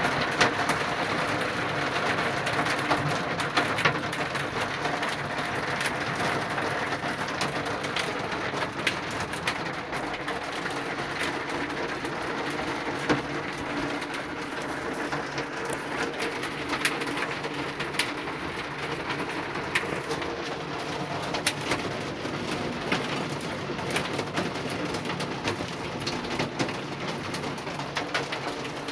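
Steady rain with many sharp drops ticking on a hard surface, and pigeons cooing throughout.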